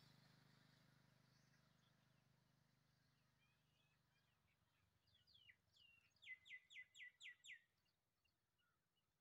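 A bird calling: scattered faint chirps, then a quick run of six sharp notes, each sliding down in pitch, lasting about a second and a half just past the middle. A faint low hum fades away over the first few seconds.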